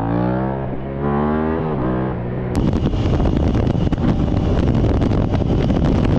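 A vehicle engine revving up and down. About two and a half seconds in, after a sharp click, it gives way to loud, rough engine and wind noise.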